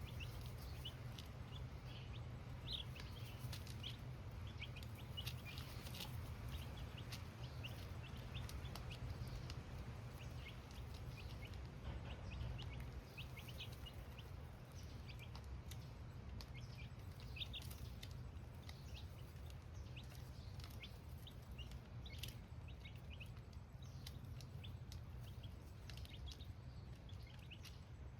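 Baby chicks cheeping, many short high peeps overlapping throughout, over a steady low hum.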